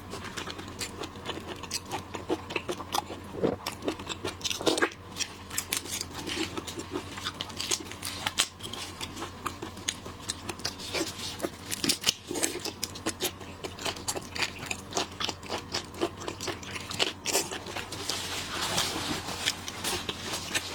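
Close-miked eating of shellfish: crunching, biting and chewing, with many short clicks and crackles of shells and mouth sounds.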